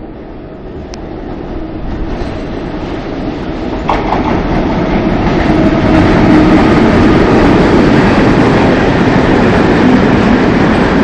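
Freight train hauled by the Class 181 electric locomotive 181-081-3 with coal wagons passing on the near track. The rumble and clatter of wheels on rail grows louder over the first six seconds as the locomotive comes alongside, then holds steady as the open wagons roll by.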